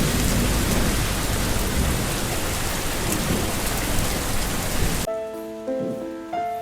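Heavy rain, a dense steady hiss, that cuts off abruptly about five seconds in. Soft music with sustained notes takes over.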